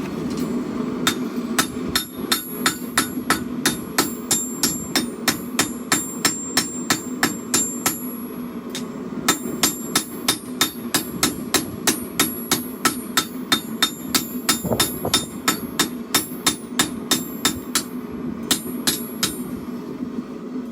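Hammer blows on a blade being forged on an anvil, a steady run of about three ringing strikes a second with a short pause about a third of the way in. A steady low hum runs underneath.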